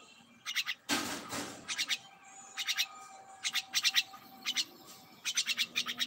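A bird calling in repeated short bursts of rapid clicking chatter, with a brief rustle of noise about a second in.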